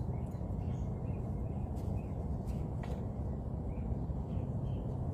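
Small birds chirping faintly, short calls about every half second, over a steady low rumble.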